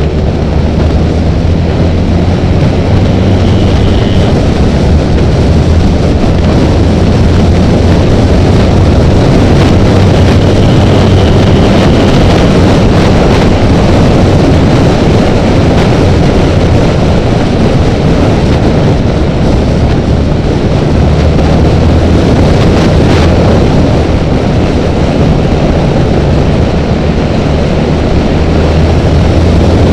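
Honda Rebel motorcycle engine running steadily at speed, buried in heavy wind and road noise.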